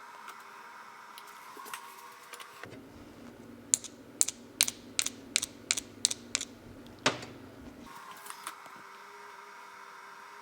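A string of about nine sharp, light clicks over some three and a half seconds, over a low steady hum that comes in about two and a half seconds in and stops near eight seconds.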